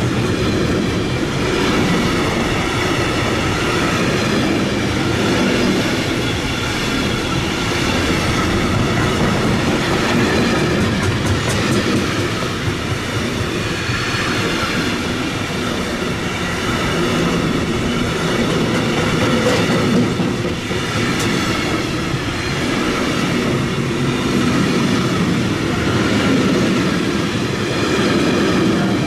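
Container freight train wagons rolling past at close range: a steady loud rumble of wheels on rail, with faint high tones running over it. A run of clicks comes from the wheels over the rail joints about a third of the way in.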